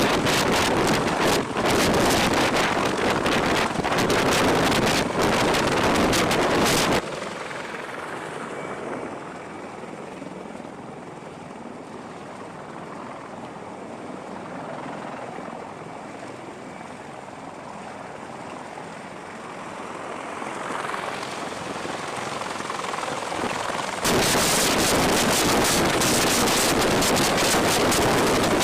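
Helicopter noise with wind on the microphone. It is loud for about the first seven seconds, drops suddenly to a much quieter sound that fades down and swells back up, then turns loud again abruptly near the end.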